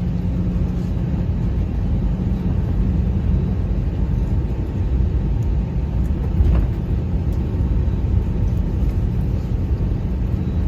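Steady low rumble with a constant hum inside the cabin of an Airbus A320-200 on the ground before takeoff.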